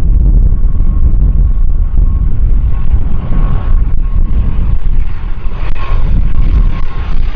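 Strong wind buffeting the microphone in a loud, gusty low rumble. Under it, jet engine noise with a steady whine grows louder and hissier from about three seconds in.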